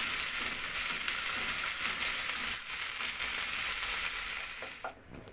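Onion and ground-spice masala sizzling in hot mustard oil in a nonstick wok, stirred with a wooden spatula, just after turmeric powder has gone in. The sizzle drops off sharply near the end.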